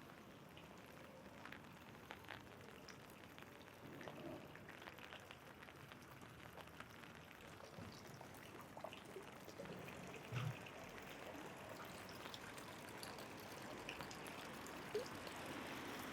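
Light rain falling, with scattered drops ticking on an umbrella overhead and a soft thump about ten seconds in. The hiss of the rain grows a little louder toward the end.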